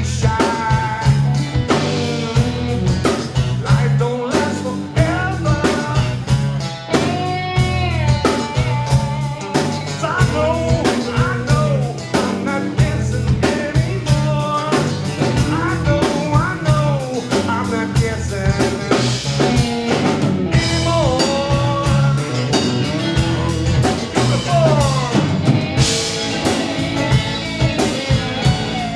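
Live blues-rock band playing through a PA system: drum kit keeping a steady beat under electric guitar and a singing voice.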